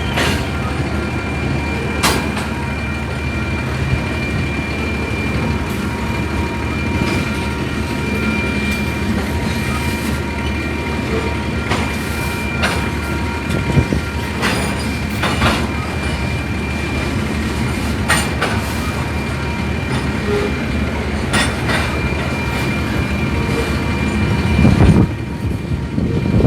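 Freight train of crude oil tank cars rolling past: a steady low rumble with irregular sharp clicks and clanks from the wheels over the rails, and a thin steady high tone over it. It gets louder briefly near the end.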